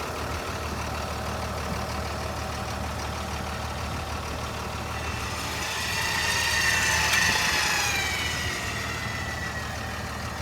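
A truck engine idling steadily. A few seconds in, a high whine swells up, then glides down in pitch as it fades.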